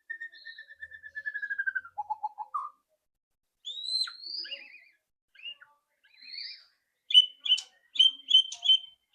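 White-rumped shama singing: a falling trill, then a lower rising trill and varied whistled phrases, and about seven seconds in a series of sharp, clicky rattle notes ('ketrek' calls) about three a second.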